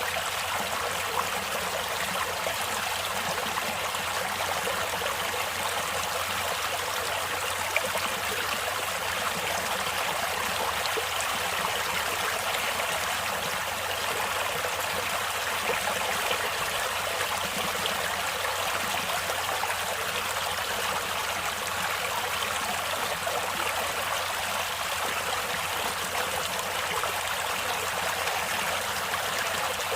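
A stream or small river flowing steadily over rocks, a continuous rush of water.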